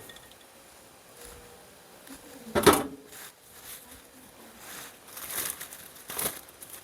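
Kitchen handling noises: a single sharp knock a little under three seconds in, then scratchy rustling near the end.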